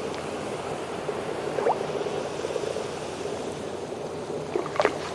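Steady underwater ambience: an even watery hiss with faint gurgling, and a couple of brief faint rising tones.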